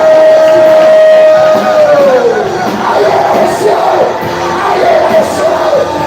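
A church congregation shouting and crying out in loud praise over music. One long held note opens the sound and slides down in pitch about two seconds in, followed by many overlapping wavering voices.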